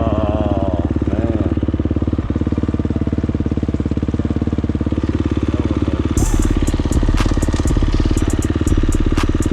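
KTM 350 dirt bike's single-cylinder four-stroke engine running steadily while riding. From about six seconds in it gets louder, with a run of sharp clicks and rattles.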